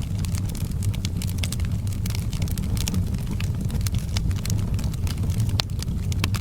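Wood fire crackling in a fireplace: many irregular sharp pops and snaps over a steady low rumble of the burning logs.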